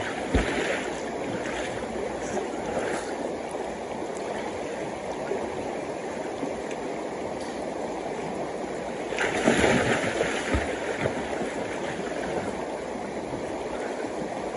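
Waterfall and river water rushing steadily, swelling louder for a second or so past the middle, with a couple of dull thumps.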